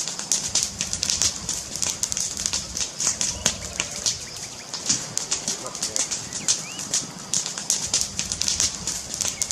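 Wood fire crackling, with many quick, irregular snaps and pops.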